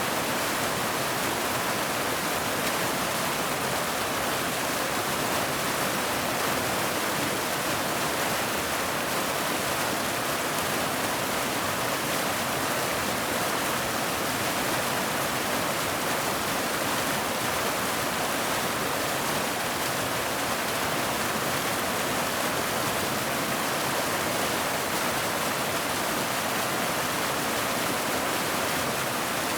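Waterfall: a steady, unbroken rush of falling water, even and without any change.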